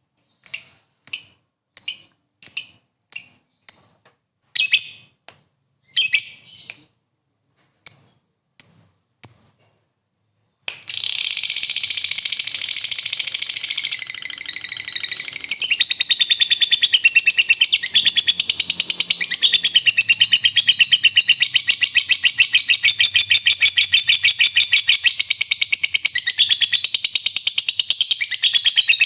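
Lovebird giving a string of short, separate shrill calls, about one a second. About eleven seconds in it breaks into a loud, unbroken, rapid chattering trill: the long 'ngekek' song.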